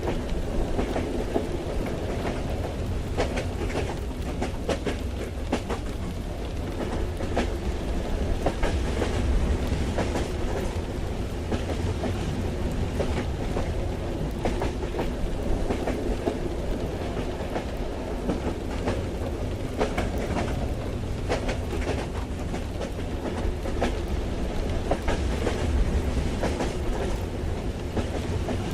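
Moving train heard from inside a carriage: a steady low rumble with irregular clicks and clacks from the wheels on the rails.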